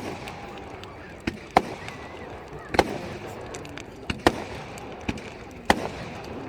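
Fireworks going off at a display: a string of about eight sharp bangs at uneven intervals, a few of them loud, over a background of crowd chatter.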